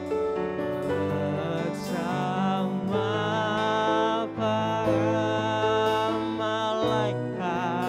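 Worship band music: held chords with a moving melody line over them, with no spoken words.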